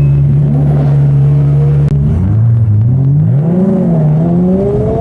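Ferrari 360 Spider's 3.6-litre V8 holding a steady note, then, from about two seconds in, its pitch dips and climbs several times as it pulls away, ending on a rising rev.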